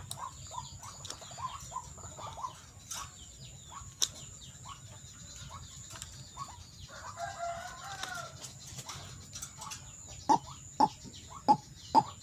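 White-breasted waterhen (ruak-ruak) calling: a run of short, repeated notes, a longer call of a different shape about seven seconds in, then louder, clipped notes about two a second near the end.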